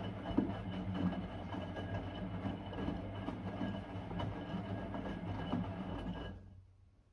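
Blomberg WA391 washing machine running a 90 °C boil wash: the motor hums with a steady whine while the drum turns, with irregular knocks and sloshing from the load. It stops abruptly about six seconds in, as the drum pauses between turns.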